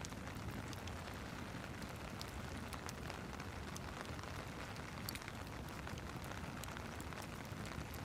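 Steady rain hiss mixed with a crackling fireplace: scattered sharp crackles and pops over an even wash of noise.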